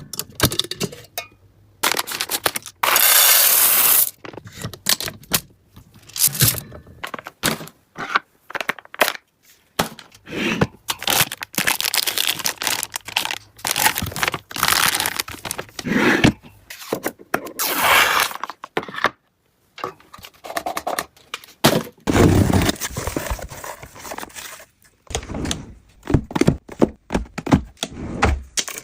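Cardboard box and packaging being opened and handled: irregular tearing, scraping and crinkling, with occasional knocks.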